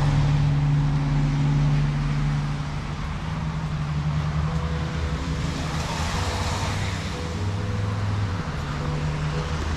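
Motorcycle engine idling steadily, its pitch shifting a little now and then, over a hiss of light rain.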